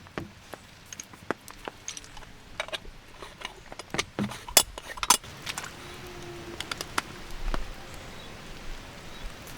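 Hard objects being handled: a run of small clicks and clinks, the two loudest sharp clinks a little past the middle, over a steady hiss of rain.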